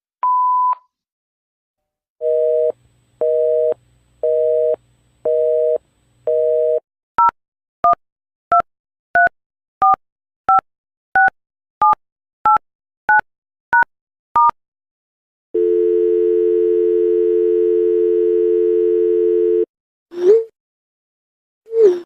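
A sequence of landline telephone signals: a single voicemail beep, then a busy signal pulsing five times at an even pace, then about a dozen short keypad dialing tones, then a steady dial tone for about four seconds. Two short swooping chirps follow near the end.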